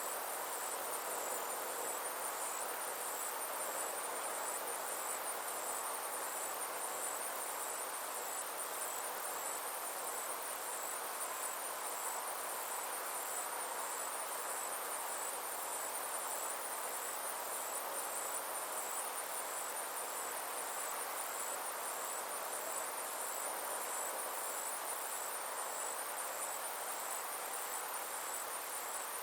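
Summer insects chirping in a steady, high-pitched chorus of evenly repeated pulses, over a soft, even background rush.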